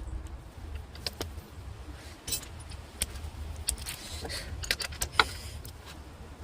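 Scattered sharp metallic clinks and taps, a dozen or so at uneven intervals, from metal tools or parts being handled, over a low rumble.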